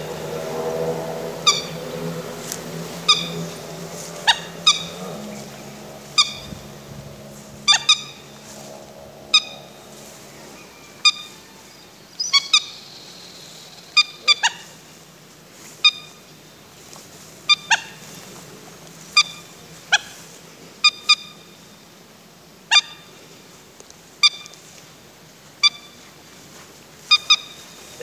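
A bird's short, sharp call, repeated about every second and a half and sometimes twice in quick succession. A low steady hum sits under it for the first ten seconds or so.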